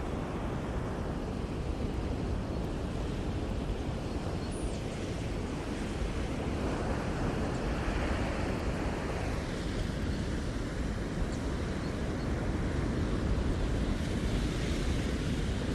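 Ocean surf: waves breaking and washing up the shore in a continuous rush, swelling about seven seconds in and again near the end.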